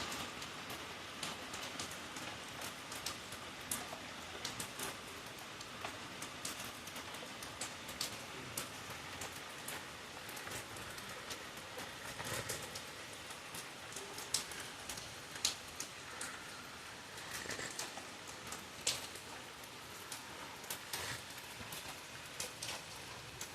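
Rain falling steadily, an even hiss with many separate drops ticking and splashing close by.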